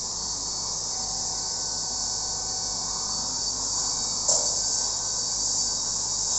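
A steady high-pitched hiss or chirring drone runs throughout, with one soft click about four seconds in.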